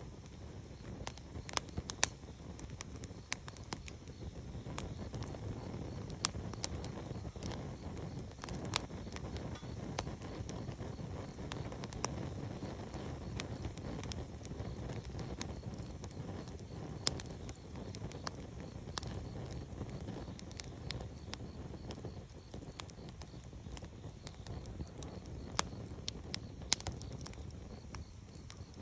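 Campfire burning, with a steady low rumble and frequent sharp crackles and pops from the wood.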